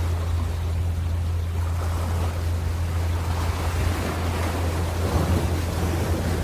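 Ocean waves washing and breaking, a continuous surf hiss that swells a little past the middle, over a steady low hum.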